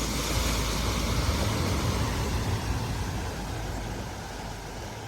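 A car driving through a flooded ford: engine rumble and the rush of water, loudest in the first couple of seconds and then gradually easing off.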